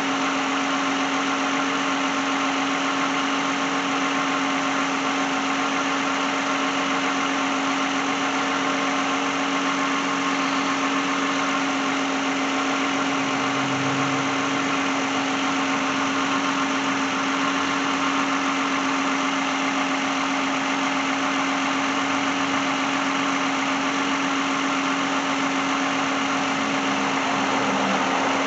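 2010 Lexus engine idling steadily, an even running sound with a constant hum that does not change.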